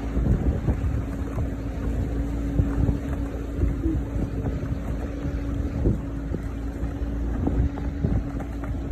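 A motorboat engine running at a steady pitch, with wind buffeting the microphone.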